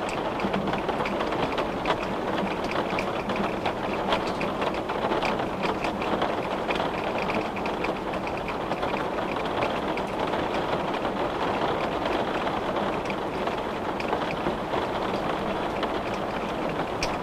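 Steady rain falling on a window, a constant hiss with many small drop ticks scattered through it.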